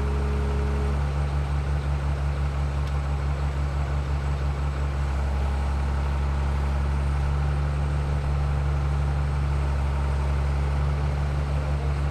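Excavator's diesel engine running steadily as a low drone, with a fast regular throb in its level from about a second in.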